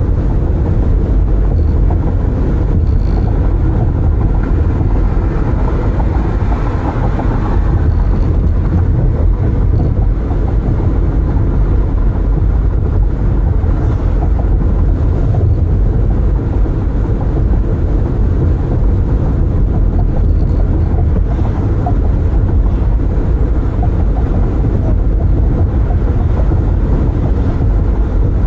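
Steady road noise from a car driving with its windows open: tyre and wind rumble in the cabin, with a brief swell of hiss around six to seven seconds in.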